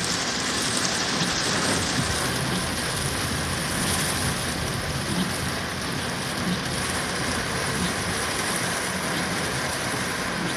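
Heavy rain pouring down in a storm, a steady dense hiss that never lets up.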